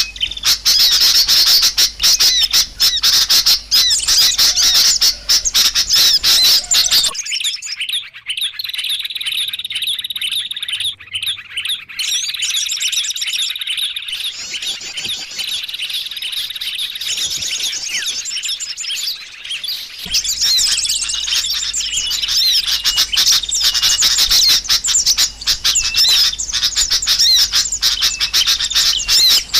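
Small birds chirping and twittering rapidly and densely in a high pitch, a recording used as a lure call to draw small birds in. For a stretch in the middle, the calls turn to clearer, separate trills with less noise behind them, then the dense chirping comes back.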